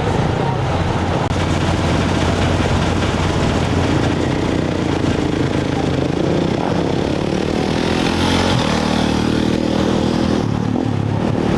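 Off-road race motorcycle engines running and revving. About eight and a half seconds in, one engine holds a steady higher rev for about two seconds.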